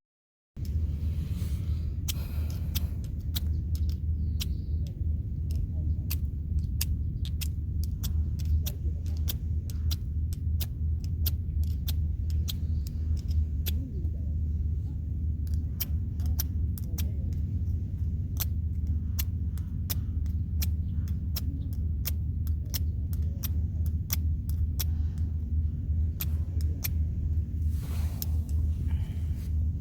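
Wood fire crackling with frequent sharp, irregular pops over a steady low rumble.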